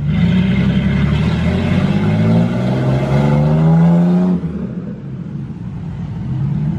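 Truck engine revving hard, its pitch climbing steadily for about four seconds before it drops back to a low rumble: the truck stuck in deep floodwater is trying to drive itself out.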